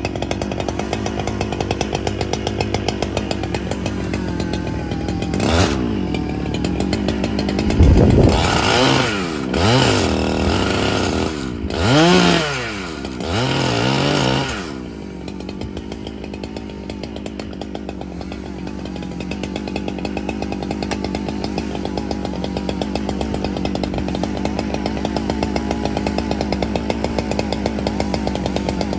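Chainsaw idling with an even ticking beat, revved several times about a third of the way in, its pitch rising and falling over about seven seconds, then settling back to idle.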